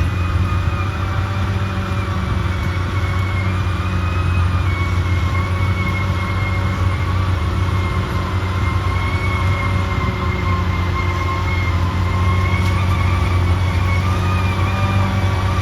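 Caterpillar D6R XL bulldozer working, its diesel engine a steady low drone with a thin high whine over it that wavers slowly in pitch.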